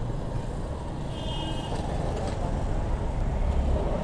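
Busy city road traffic: a steady low rumble of passing motorcycles, auto-rickshaws and trucks. A brief high-pitched tone sounds about a second in.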